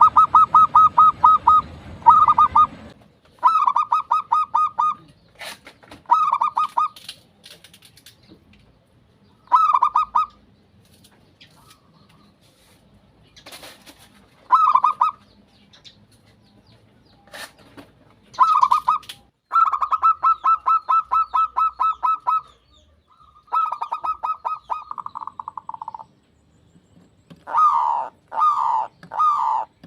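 Zebra doves (perkutut) cooing in repeated bursts of rapid pulsed notes with pauses between them, some bursts long and some short. Near the end a quicker series of downward-sliding notes follows.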